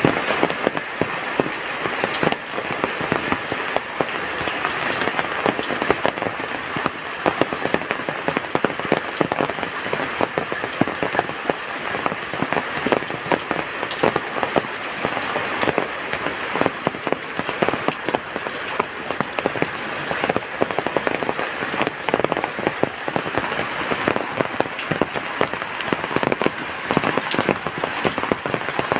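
Heavy rain falling steadily, with many close drops striking sharply through a dense, even wash of rain noise.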